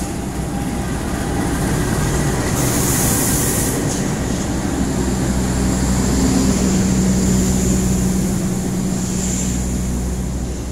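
Diesel-electric locomotive hauling a passenger train past along the platform: the engine drones steadily under the rolling of the train, with a short burst of air hiss about three seconds in.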